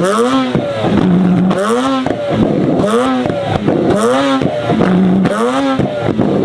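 Heavily modified Mazda RX-8's engine being revved in quick repeated blips, about one a second, each rising sharply and dropping back, with a brief steady hold between some of them.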